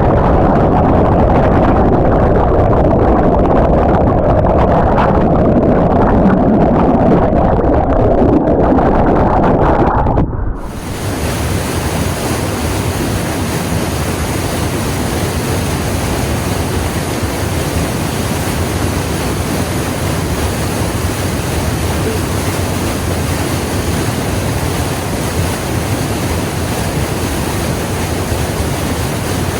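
Rushing water, muffled and low for about ten seconds, then switching suddenly to the clear, steady hiss of a waterfall.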